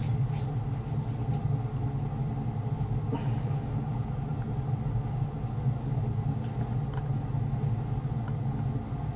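Steady low mechanical hum, with a few faint clicks about the first second and a half.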